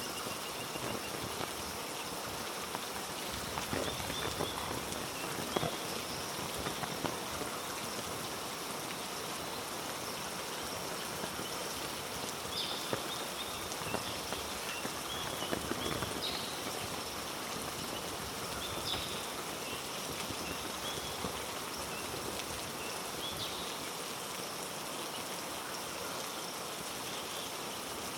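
Heavy rain falling steadily on rainforest foliage, with a few short high chirps scattered through it.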